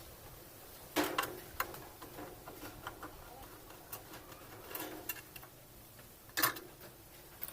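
Scattered sharp clicks and knocks of parts and tools being handled while a washing machine is being worked on, with the loudest about a second in and another near the end.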